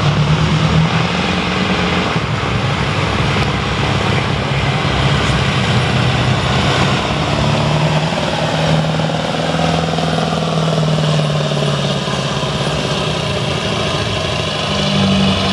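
Mack V8 diesel truck engine running loud and steady, its pitch shifting up and down.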